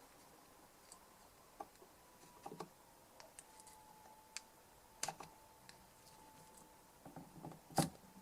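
Sparse small clicks and taps of hand tools working on a DI box, picking debris out of its input jack; the loudest click comes near the end. A faint steady tone runs underneath.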